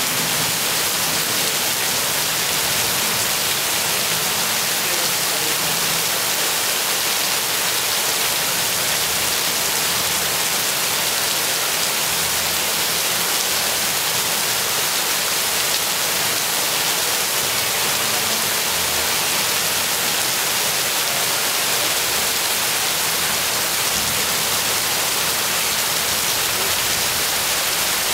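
Steady downpour of rain: a dense, even hiss that holds unchanged throughout.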